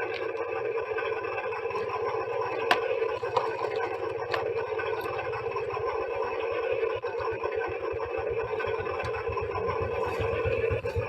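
Small electric motor and gearbox of a remote-control toy construction vehicle whirring steadily with a fast low pulsing, and a couple of sharp clicks a few seconds in.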